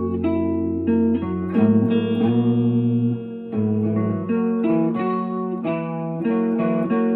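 Guitar music: a run of plucked notes, each ringing on into the next.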